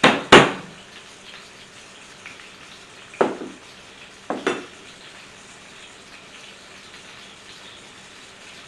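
Flat of a kitchen knife whacked down on garlic cloves on a cutting board: five sharp knocks in three groups (two right at the start, one about three seconds in, two more a second later). Chicken breasts frying in oil sizzle steadily underneath.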